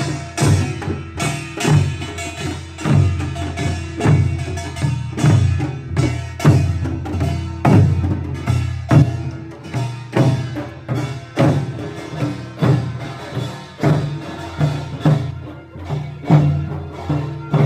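Korean pungmul percussion band of drums and gongs playing a steady, regular beat.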